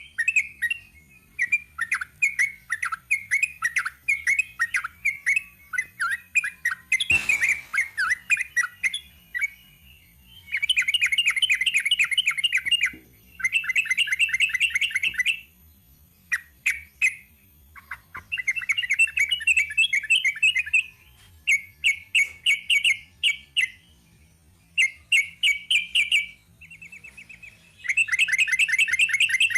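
Sooty-headed bulbul (trucuk) singing: quick chattering runs of repeated notes that break into long, dense rapid-fire trills ('ropel'), each lasting about two seconds, several times over. A single sharp knock comes about seven seconds in.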